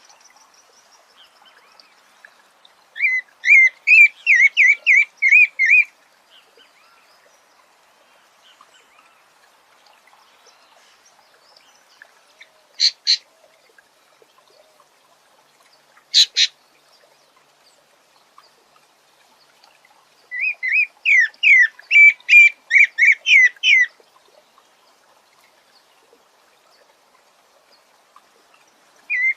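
A sabiá singing: phrases of about three seconds of rapid repeated whistled notes, two full phrases with long pauses between and a third starting at the very end. Between the phrases come two short, sharp single calls.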